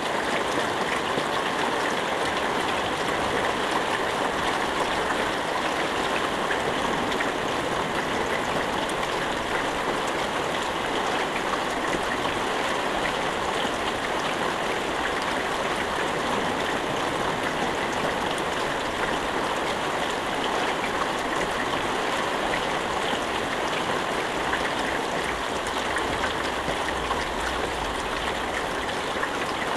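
Steady rain falling without thunder, a continuous even hiss with no single drops standing out.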